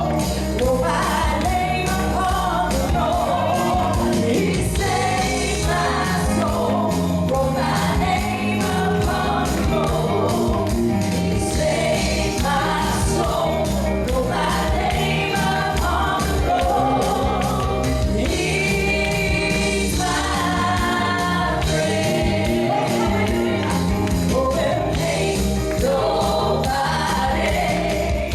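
Gospel music: a choir and congregation singing over a band with a steady beat.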